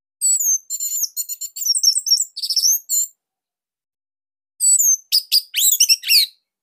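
Orange-headed thrush (anis merah) singing two rapid phrases of high, sweeping and trilled notes with a pause of about a second and a half between them.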